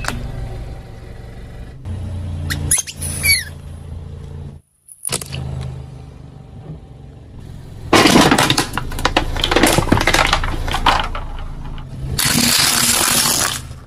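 A car's engine idling while its tyre rolls over objects and crushes them. Squeaks come about three seconds in, a long run of loud crackling and cracking starts about eight seconds in, and a loud rushing burst follows near the end.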